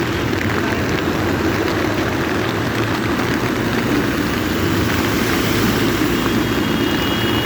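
Heavy rain falling, with the steady rumble of road traffic underneath; a horn sounds faintly near the end.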